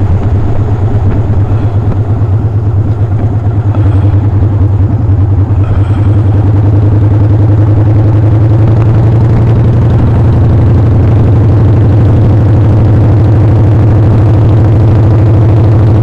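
Motorcycle engine running steadily with a low hum. Its loudness wavers for the first several seconds, then holds even.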